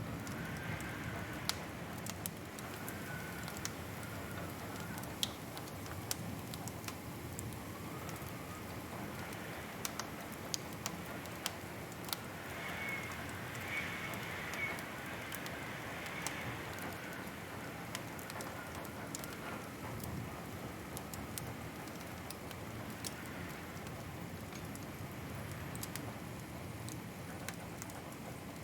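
Wood fire crackling: irregular sharp pops and snaps over a steady soft hiss, with a faint wavering whistle now and then, a little stronger about halfway through.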